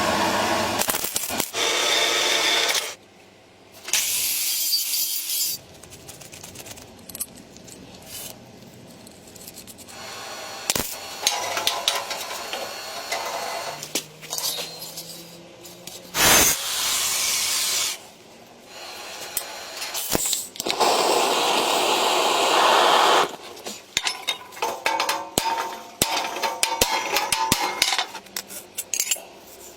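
Metalworking tool sounds in separate bursts: stretches of sawing or rubbing noise that start and stop abruptly, mixed with sharp clinks and knocks of small metal parts.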